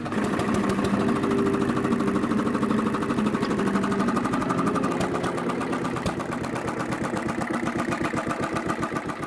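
A vintage engine running steadily at idle, its firing heard as a rapid, even beat.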